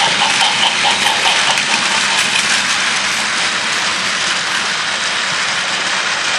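Motorized toy Thomas the Tank Engine train running along its track with a line of freight cars clattering behind it: a steady, loud whirring rattle, with faint regular clicking in the first couple of seconds.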